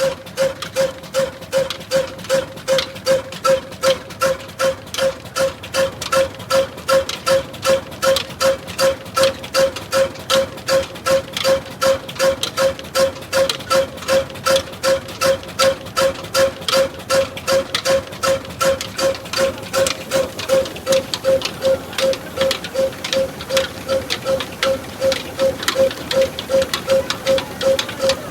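Old desi diesel oil engine running steadily, with an even beat of about two and a half strokes a second, each stroke carrying a ringing metallic tone.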